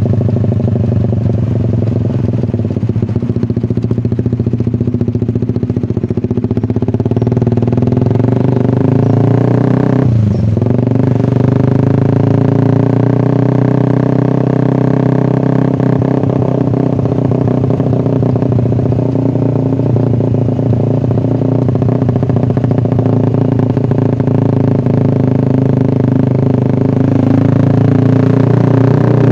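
Suzuki Satria FU 150's single-cylinder four-stroke engine running through an SC Project aftermarket exhaust while riding at a steady pace. About ten seconds in the engine note drops briefly, as at a gear change, then settles back to a steady run.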